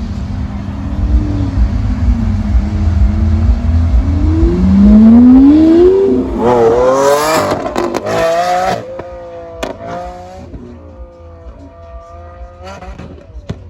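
Sports car accelerating hard, its engine note climbing steeply from a low rumble about four seconds in and snapping through quick upshifts, then dropping in pitch and fading as it drives away.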